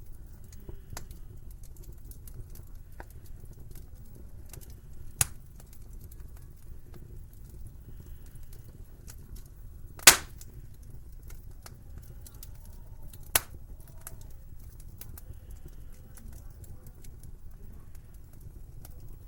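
Wood fire crackling in a fireplace, with a steady low rumble and scattered small ticks, and three sharp pops: one about five seconds in, the loudest about ten seconds in, and one near thirteen seconds.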